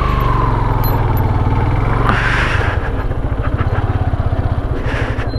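Motorcycle engine running steadily as the bike rides along, with a short hiss about two seconds in.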